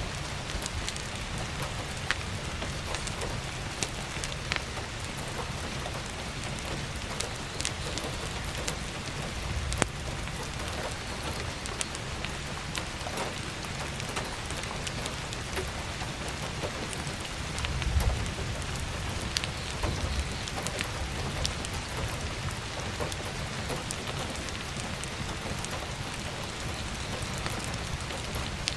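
Heavy rain drumming steadily on an attic skylight, mixed with crackling firewood that gives scattered sharp pops. There is a brief low rumble about two-thirds of the way through.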